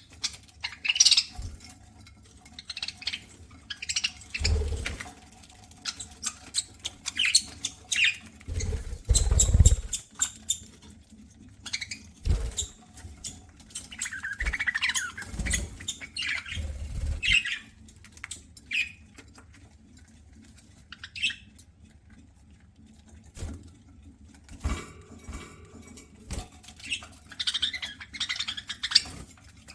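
Budgerigars chirping and squawking in short bursts over irregular small clicks and crackles of seed being nibbled and husked. Several dull low thumps come in between, the strongest about nine seconds in.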